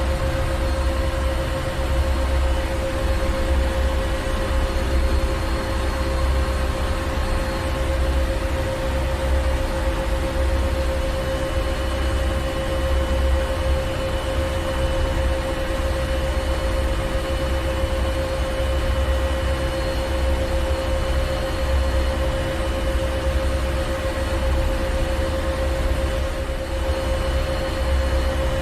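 Ship's engine room machinery running steadily: a constant loud drone with a steady hum and a low rumble that throbs unevenly underneath, over an even hiss.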